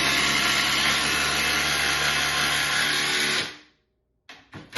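Milwaukee M12 FUEL cordless power tool running steadily at full trigger for about three and a half seconds, then cutting off suddenly. Near the end come two very short trigger blips.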